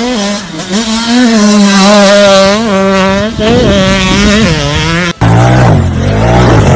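A motor vehicle engine revving up and down with a wavering pitch. About five seconds in it cuts off suddenly, and a lower-pitched engine follows, also revving unevenly.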